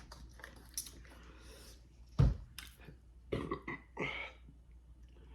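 A person burping several times after a big meal, the loudest a short, low one about two seconds in.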